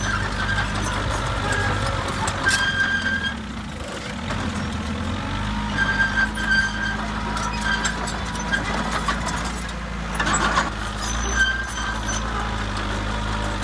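Crawler bulldozer's diesel engine running steadily, with short high squeals repeating every second or two from its steel tracks. A brief rush of noise comes about ten seconds in.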